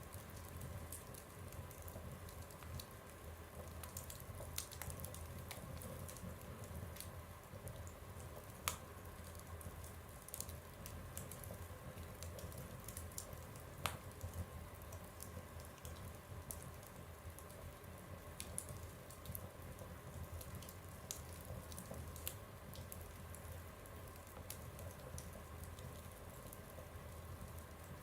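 Fire burning in a stove, crackling with small irregular pops over a low steady rumble; two sharper pops stand out about 9 and 14 seconds in.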